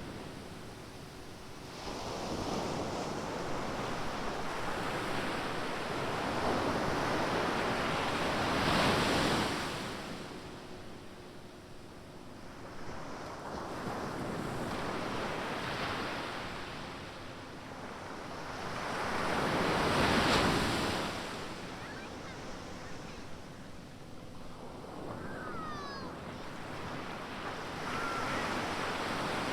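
Ocean surf: waves breaking and washing up the beach in slow swells that rise and fall over several seconds. The two largest break about a third of the way in and again about two-thirds of the way in.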